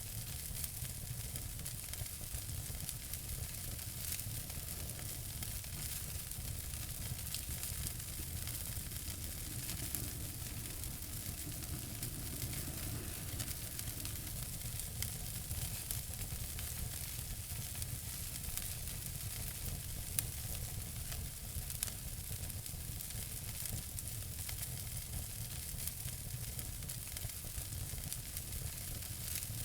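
Wood fire in a fireplace burning steadily with a dense, fine crackle and low rumble, and two slightly louder pops about two-thirds of the way through.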